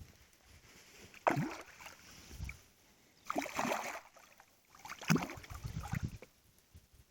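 Water splashing in three short bouts, each with a dull low thud under the splash.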